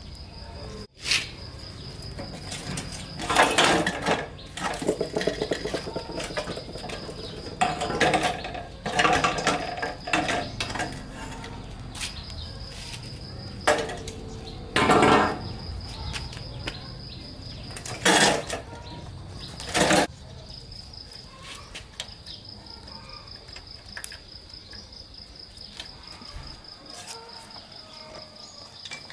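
Metal parts and hand tools being handled during diesel engine repair work: clinking and scraping in separate bursts every few seconds, calmer in the last third. A thin, steady high-pitched whine runs underneath.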